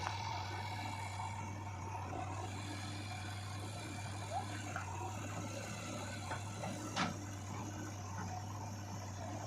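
Heavy machinery engine running steadily, with a single sharp knock about seven seconds in.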